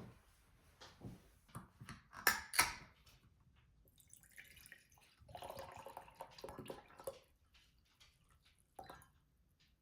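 Kitchen handling sounds: a few sharp clicks, then water or liquid running for about two seconds, and a single knock near the end.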